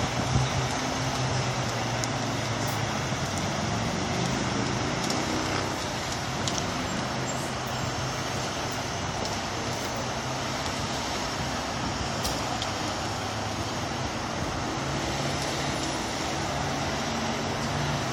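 Steady freeway traffic noise, with a vehicle engine running low underneath that shifts slightly in pitch near the start and again near the end.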